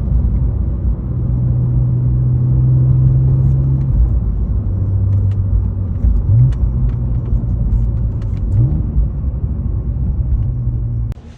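BMW E46 330i ZHP's inline-six engine running under way, with road rumble underneath. The engine note drops about four seconds in and later sweeps up quickly twice, as with gear changes. The sound cuts off abruptly near the end.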